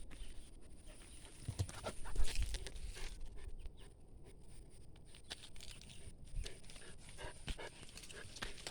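A puppy close to the microphone, panting and snuffling, among scattered small clicks and rustles. A louder bump about two seconds in.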